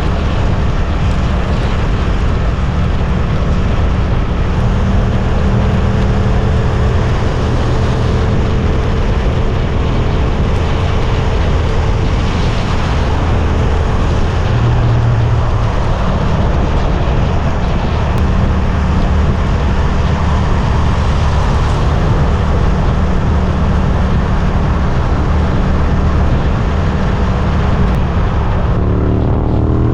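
Suzuki GSX-8S parallel-twin engine running at a steady pace under way, with wind and road noise; near the end the revs rise as it accelerates.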